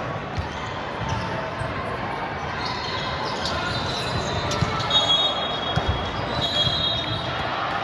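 Indoor volleyball play in a gym: a ball being struck and thudding several times, with sneakers squeaking on the court floor over a steady background of crowd voices.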